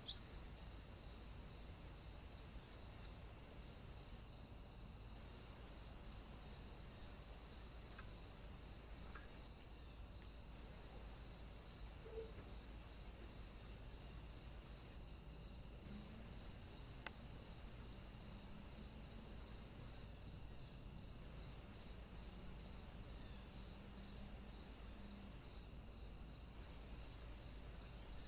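Faint, steady high-pitched whine with a soft, regular pulse about one and a half times a second, and a couple of faint ticks.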